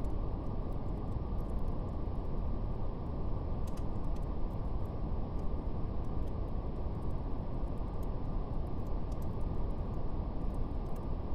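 Steady, deep brown noise, strongest in the lows, with sparse faint crackles of a fire scattered through it.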